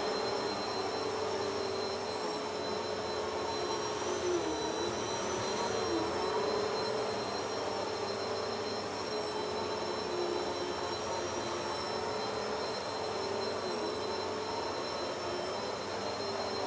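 Vacuum cleaner running steadily as it is pushed over the floor, a motor whine with high whistles, its pitch dipping briefly several times.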